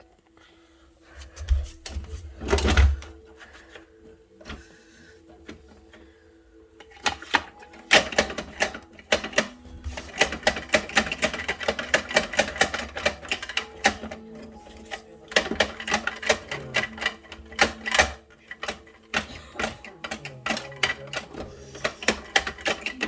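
Plastic toy garbage truck being worked by hand: a couple of dull thumps, then from about seven seconds in a dense run of rapid plastic clicks and rattles.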